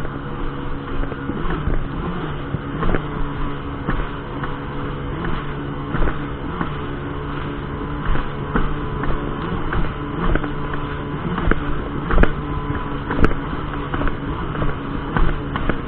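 Jet ski engine running at a steady speed, with frequent irregular thumps through it.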